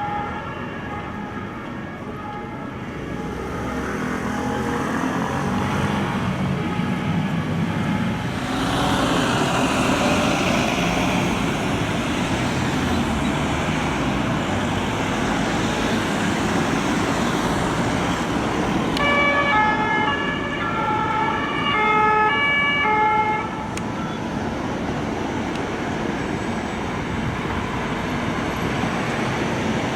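French two-tone police siren (deux-tons) alternating between a high and a low note as unmarked police cars pass through city traffic, heard twice, near the start and again about two-thirds of the way in. Car engines and road noise run underneath.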